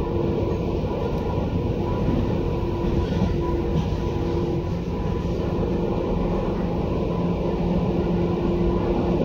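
Tobu 10030 series electric train running, heard from inside the passenger car: a steady rumble of wheels and running gear with a few steady held tones over it.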